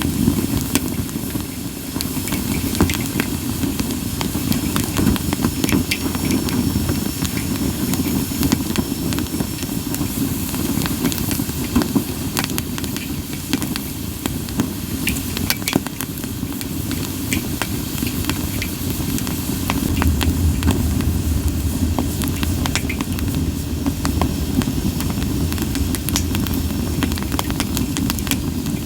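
Campfire of split sawtooth oak (kunugi) logs burning: a steady low rumble of flame with frequent sharp pops and crackles, and at times a faint thin hiss of moisture steaming out of the wood.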